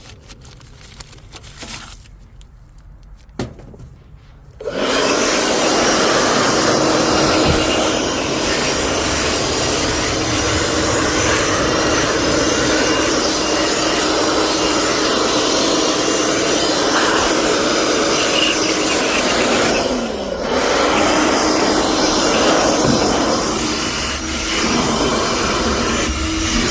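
A blower switched on about five seconds in, running steadily with a loud whoosh, blowing dirt and debris out of a walk-in cooler condenser. A few light clicks of handling come before it starts, and the blowing dips briefly near the end.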